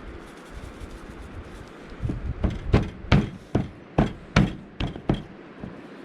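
A rock pounding raw steak: a run of about nine heavy knocks, roughly three a second, starting about two seconds in and stopping shortly after five seconds.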